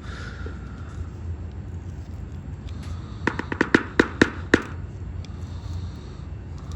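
A quick run of about seven sharp clicks and knocks, the last ones loudest, over a steady low hum.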